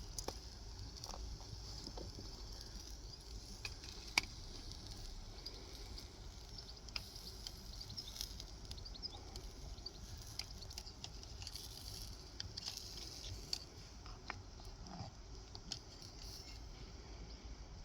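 Steaks sizzling on a grill over a small wood fire in a Bushbox XL stove, with a steady hiss and scattered sharp crackles and pops.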